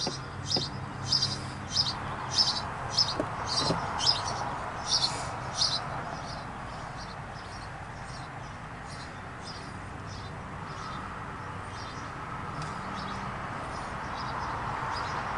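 A bird chirping over and over, short high notes about twice a second, loudest in the first six seconds and fainter after. Under it runs a low steady hum, and a soft rushing noise builds slowly toward the end as a freight train's locomotive draws nearer.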